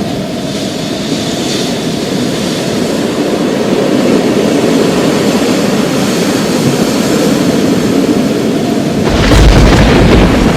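Thunderstorm: a steady low rumble of rolling thunder, then a sudden louder thunderclap about nine seconds in, heavy in the deep bass.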